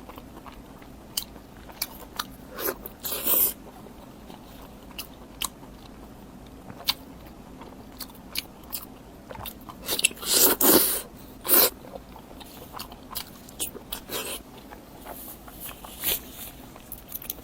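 Close-miked eating: a person biting and chewing crunchy food with wet mouth clicks, and louder crunches about 3 seconds in and again around 10 to 12 seconds in.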